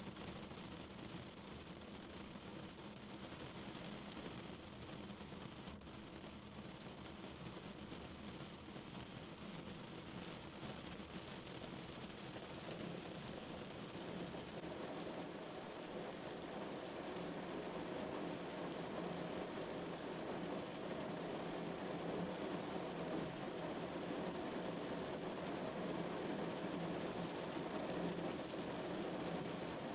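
Rain falling on a car, a steady hiss of drops that grows louder about halfway through.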